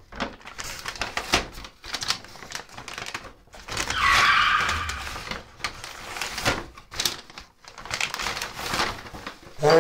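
Close handling noises: a string of small clicks and knocks as items are moved about, with a louder rustle lasting about a second, about four seconds in.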